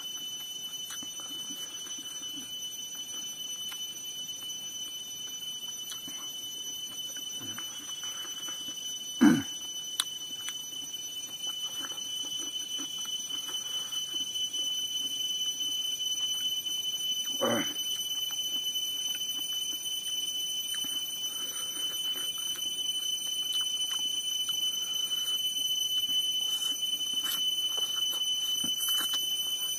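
Close-up eating sounds of a man chewing a hand-eaten meal of rice and chicken. Two short loud knocks, about nine and seventeen seconds in, stand out, over a steady high-pitched whine with overtones.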